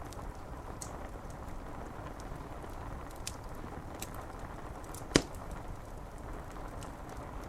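Wood fire crackling with scattered small snaps and one sharp loud pop about five seconds in, over a steady hiss of rain on window glass.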